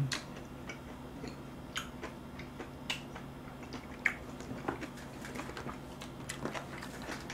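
Close-miked chewing of a mouthful of spicy braised seafood and bean sprouts, heard as irregular short wet mouth clicks, a few a second. A faint steady hum runs underneath.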